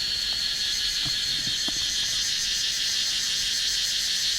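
Steady, shrill insect chorus from the jungle: a continuous high tone with a fast, even pulsing.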